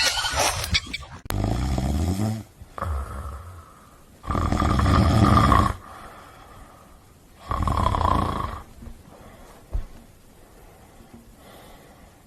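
A dog snoring: three loud snores about three seconds apart, each lasting over a second, with a shorter, fainter one after the first.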